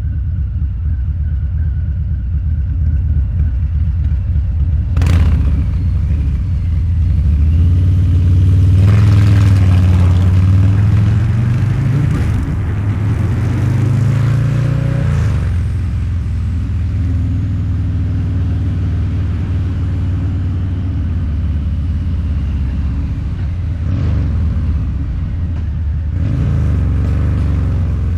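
Harley-Davidson Low Rider's 129 cubic inch V-twin through a Two Brothers Racing exhaust, cruising with a deep rumble. There is a sharp crack about five seconds in, then two throttle pulls with the engine note rising, broken by a short dip, before it drops back to a steady cruise; a smaller blip of throttle comes near the end.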